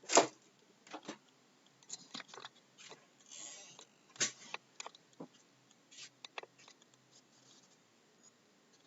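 Irregular clicks and taps with a brief rustle about three seconds in, spaced out and fading to almost nothing near the end.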